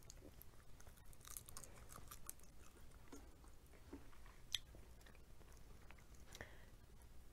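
Faint chewing and small crackles of someone eating boiled crab meat picked by hand, with one sharp click past the middle.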